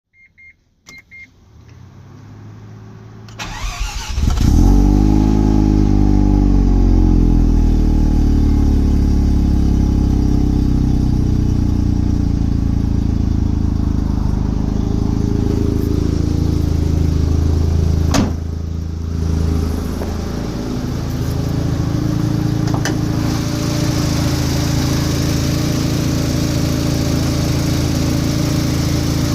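Mazda FD RX-7's 13B twin-rotor rotary engine, converted to a single turbo, on a cold start: it cranks for a few seconds, catches about four seconds in with a flare of revs that falls away, then runs at a steady fast idle. About 18 seconds in there is a click and the idle dips and wavers briefly before steadying again.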